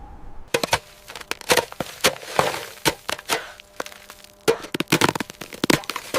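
An irregular run of sharp cracks and snaps, about fifteen over six seconds, some with a brief ringing tail.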